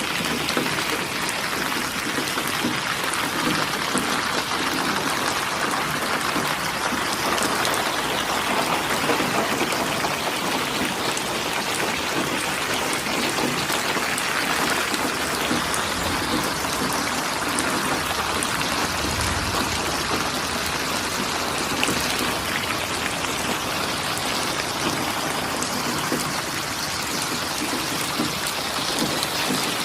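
Steady, heavy rain falling, a dense continuous hiss of drops with fine pattering. A brief low rumble comes about two-thirds of the way through.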